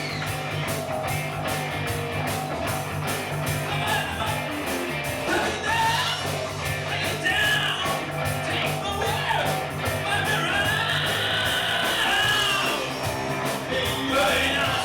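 Live rock band playing a rock-and-roll number: electric guitar over a steady bass line and drums, with a singing voice.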